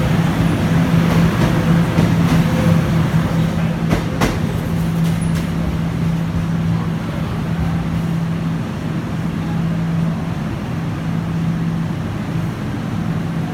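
Guangzhou Metro Line 1 train running, a loud steady rumble with a low hum that stops about ten seconds in, and a few clicks about four seconds in.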